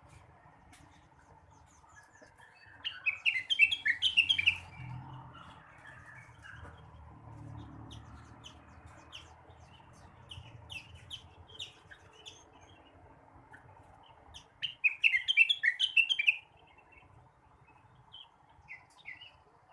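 Blue-winged leafbird (cucak wilis) singing: two bursts of rapid, high chirped notes, one about three seconds in and one near the end, with scattered single chirps between them.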